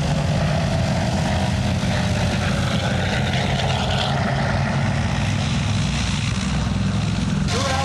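Piston-engined WWII warbird propeller aircraft droning steadily, with a tone that sinks slowly in pitch over the first three seconds. The sound changes abruptly just before the end.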